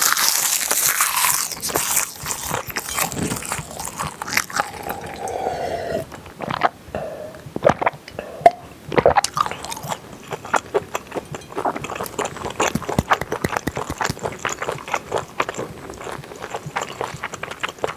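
Close-miked eating: a crisp crackling crunch as sheets of dry laver (gim) are bitten at the start, then wet chewing and smacking mouth sounds, with a few gulps of water about eight seconds in.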